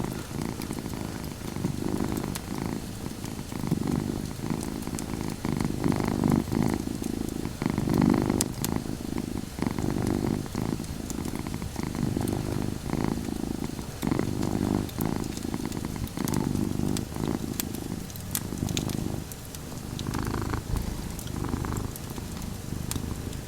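Domestic cat purring steadily, the purr swelling and easing in slow cycles with its breathing, with sparse small crackles and pops from a wood fire.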